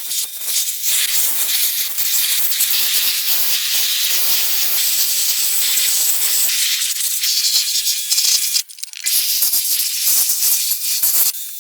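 Steady loud hiss of air or spray, broken once briefly near the end.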